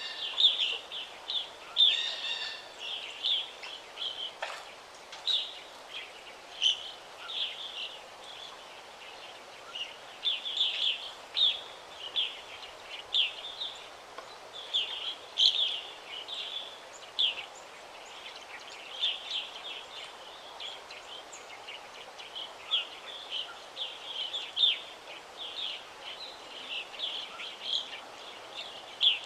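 Wild songbirds chirping and singing in a forest: a steady stream of short, high chirps, often several in quick succession, over a faint background hiss.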